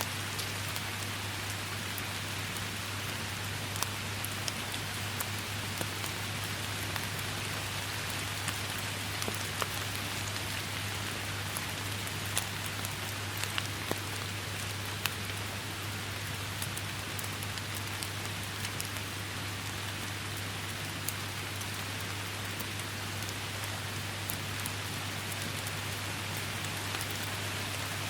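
Steady rain falling, with individual drops ticking sharply here and there over the even hiss, and a constant low hum underneath.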